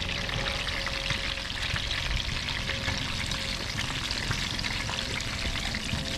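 Trout frying in hot oil in a pan, the second side cooking after the flip: a steady, dense sizzle full of fine crackles.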